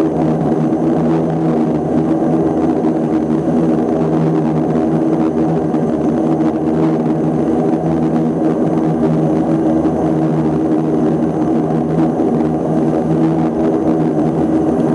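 Antonov An-24's two Ivchenko AI-24 turboprop engines and propellers running at a steady setting, a loud, even hum of several fixed tones that holds without rising or falling.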